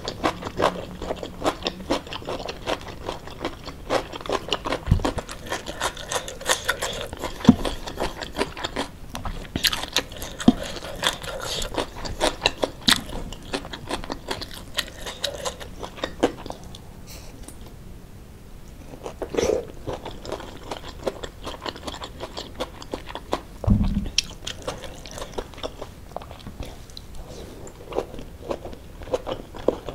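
Close-miked chewing and crunching of a mouthful of rice with crispy fried-anchovy sambal, many small sharp crunches in quick succession, easing off for a few seconds past the middle. A couple of low knocks stand out, about five seconds in and again near the end.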